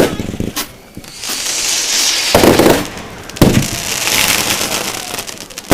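Fireworks going off: a bang at the start, two more about two and a half and three and a half seconds in, and another at the very end, with crackling and hissing between the bangs.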